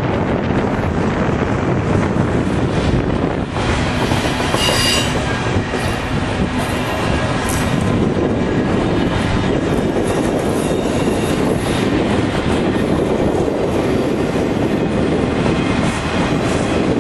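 Freight train cars rolling past close by: a steady rumble and clatter of steel wheels on the rails, with brief high-pitched wheel squeals about five seconds in and again a couple of seconds later.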